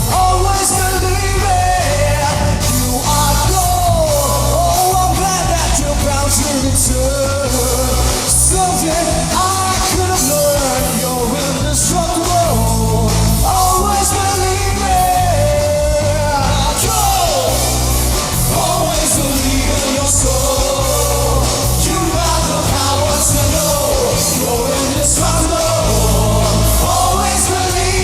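Loud rock band music with a sung melody, playing on without a break.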